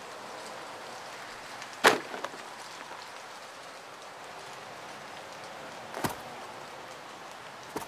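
Three sharp knocks over a steady faint hiss: a loud one about two seconds in, then lighter ones at about six seconds and near the end.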